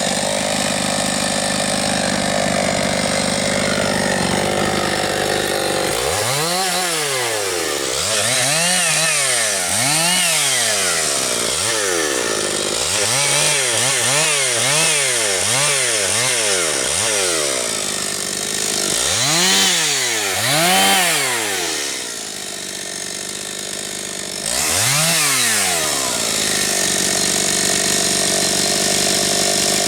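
Husqvarna 272XP two-stroke chainsaw running steadily at high revs, then revved up and down about once a second in a long series of throttle blips. It drops briefly to a quieter idle near the end, revs once more, and settles back to a steady run.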